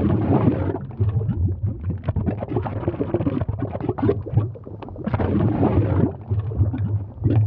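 Molten lava bubbling: thick, irregular gurgling and popping, with a low rumble underneath.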